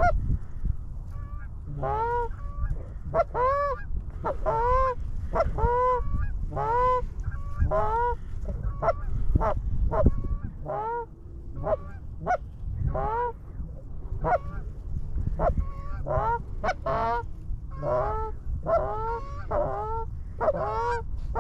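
Geese honking: a steady run of repeated honks, about one or two a second, with several birds calling over one another.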